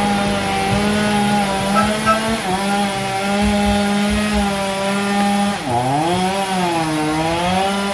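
Two-stroke chainsaw cutting into a fallen sengon tree trunk, running at a high steady pitch. From about two-thirds of the way in, its pitch sags and recovers several times as the chain loads up in the wood.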